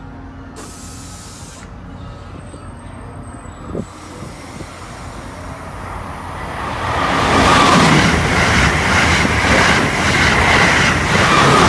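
Amtrak Acela Express high-speed electric trainset passing the platform at speed: a loud rush of wheels on rail and air that builds from about six seconds in, then holds. A short hiss comes near the start.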